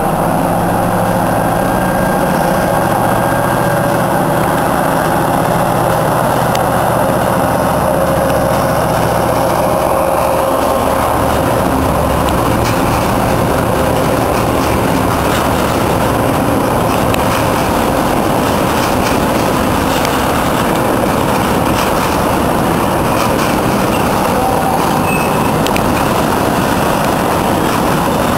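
Freight train passing: a diesel locomotive's engine drones for about the first ten seconds and fades, then a long string of tank wagons rolls by with steady wheel rumble and frequent clicks.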